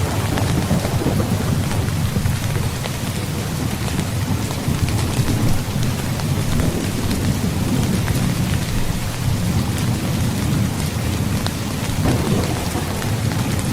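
Heavy rain falling steadily, with scattered drops ticking, over a continuous low rumble of thunder.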